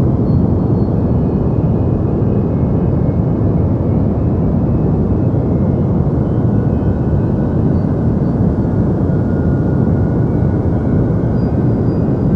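Steady deep noise: a continuous, unchanging low hiss with most of its weight in the low end and little above it, with a few faint thin tones drifting high up.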